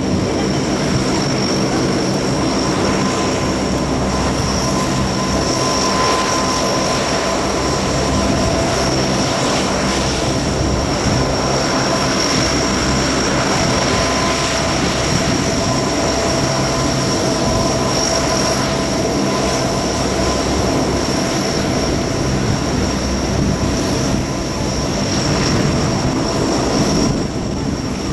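Lockheed P-3C Orion's four Allison T56 turboprop engines running steadily, a loud even propeller drone with a steady high-pitched turbine whine over it.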